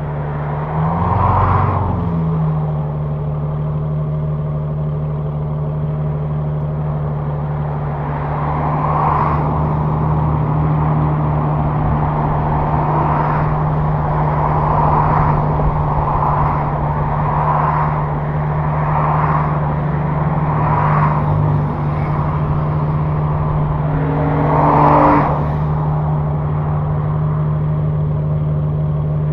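Tuned 2014 Aston Martin V12 Vantage S's V12 engine idling steadily at the exhaust, with a short rev blip about a second and a half in and a brief louder swell near the end.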